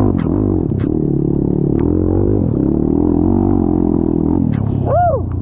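Off-road vehicle engine labouring under load at fairly steady revs, with scattered knocks and clatter over the rough trail. About five seconds in there is a brief tone that rises and then falls.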